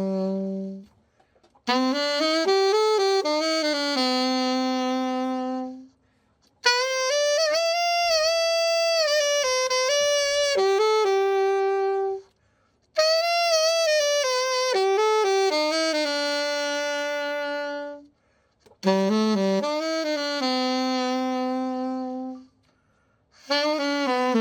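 Solo alto saxophone playing short melodic phrases of a few seconds each, with brief pauses between them: a play-test of the freshly overhauled horn.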